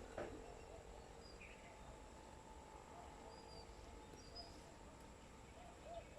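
Faint chirps of small birds at a feeder: a few short high chirps scattered through, and soft little repeated calls that come closer together near the end, over a steady faint background hum. A couple of light clicks just at the start.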